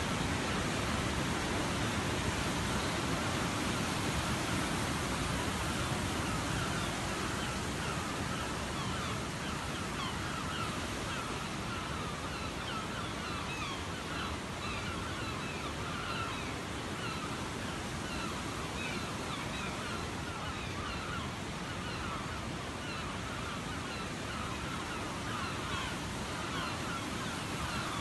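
Waterfall: the steady rushing roar of falling water. From about a third of the way in, many short bird calls sound over it.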